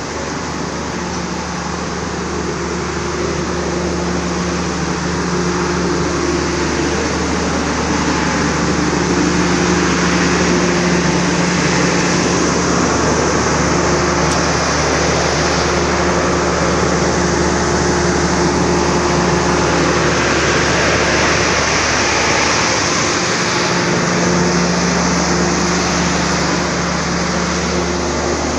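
Loud steady hum and whir from stationary passenger trains at a platform, their air-conditioning units and onboard machinery running. A low drone swells and fades every few seconds.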